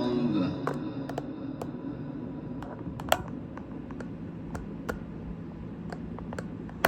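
Scattered, irregular sharp clicks, about fifteen in all, over a low steady hum, after a man's recited voice trails off in the first half second.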